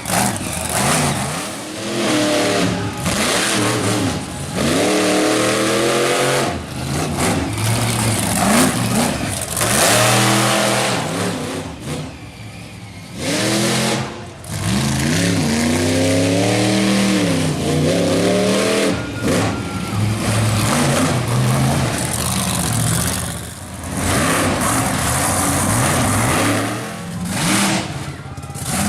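Monster truck engine revving hard in repeated bursts, its pitch climbing and falling back again and again, over a steady noisy haze, with a short lull about twelve seconds in.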